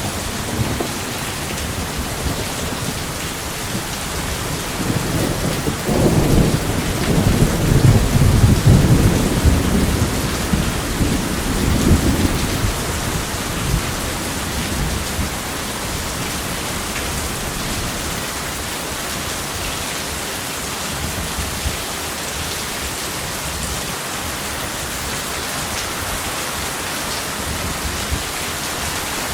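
Steady rain falling, with a long roll of thunder that builds about five seconds in, rumbles for several seconds and fades away before the halfway point.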